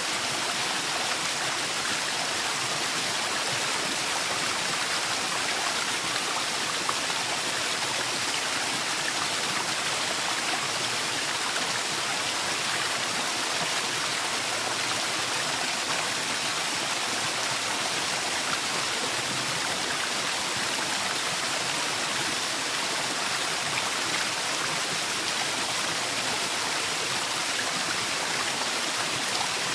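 Waterfall in a forest: steady rushing and splashing of falling water.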